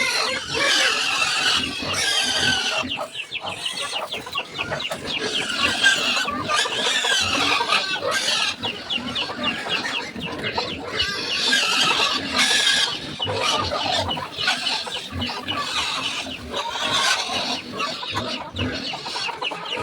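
Backyard farm animals calling continuously: chickens clucking in a dense, overlapping chorus, with pigs heard among them.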